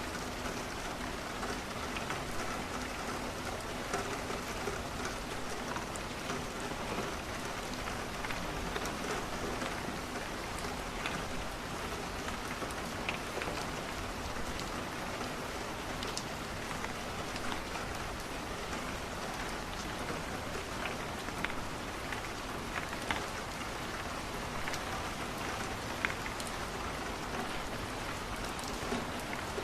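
Steady rain falling, with scattered sharp crackles and pops from a wood fire through it.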